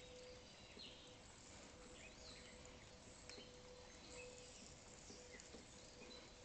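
Near silence of a backyard: scattered faint bird chirps over low hiss, with a faint steady hum.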